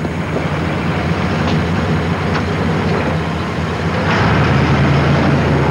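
Car engine running steadily, growing louder about four seconds in.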